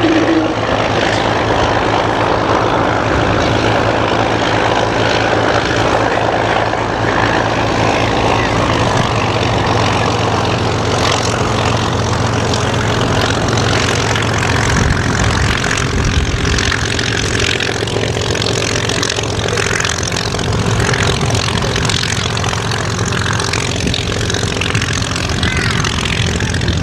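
Propeller-driven Second World War fighter's V12 piston engine running steadily, with propeller noise over it.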